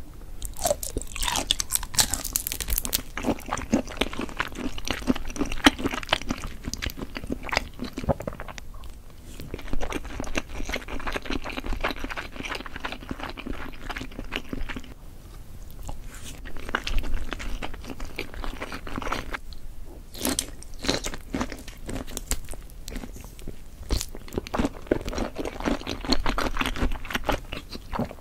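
Close-miked mukbang eating sounds: a person chewing and biting soy-marinated raw shrimp and scallops on rice, with wet, crunchy mouth sounds in repeated bursts and short pauses between mouthfuls.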